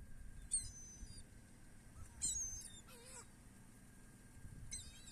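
Seagulls calling: four short, high squealing calls, one about half a second in, two close together around two to three seconds in, and one near the end.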